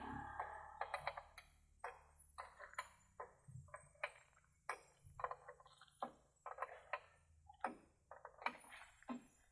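Irregular metallic taps and clinks, a little over two a second, each ringing briefly, as chrome wheel-cover parts are fitted onto a truck wheel.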